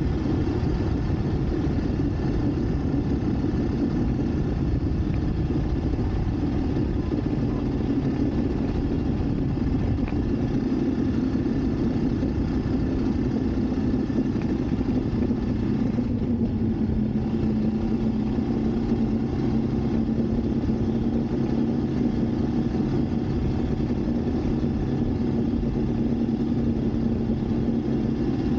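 Motorcycle engine running steadily while riding, under a constant low rumble of wind and road noise. About halfway through, the engine tone drops a little as the revs ease, then holds steady.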